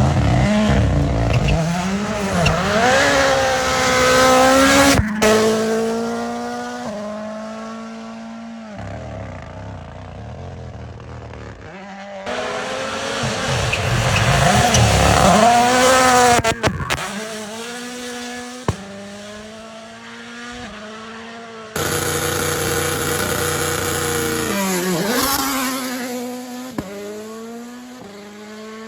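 Rally cars driven flat out past the microphone in several separate passes. Each engine revs hard and its pitch climbs and drops as the car approaches and goes by, then steps through gear changes as it pulls away. There are occasional sharp pops.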